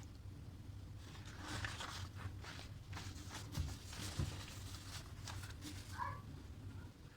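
Household items being handled during kitchen organizing: soft rustling and clicks, two light knocks a little over half a second apart, and a brief squeak near the end, over a low steady hum.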